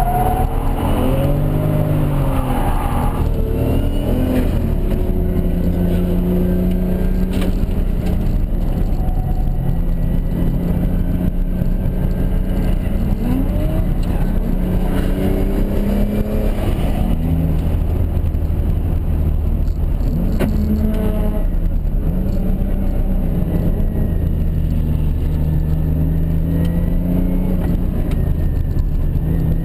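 Toyota Mark II's turbocharged 1JZ straight-six running hard while drifting, its revs rising and falling and holding steady between shifts of throttle, heard from inside the cabin.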